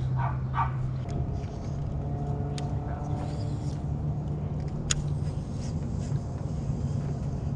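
Small jon boat's motor running steadily while trolling, a low hum with a higher whine over it from about one to four seconds in, and a couple of sharp clicks.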